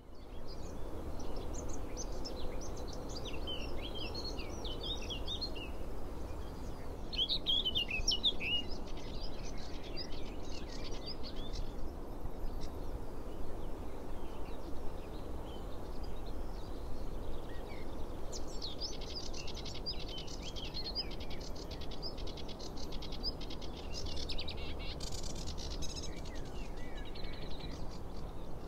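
Wild birds chirping and twittering in several bouts, some short in the first nine seconds and one long stretch in the second half, over a steady low outdoor background rumble.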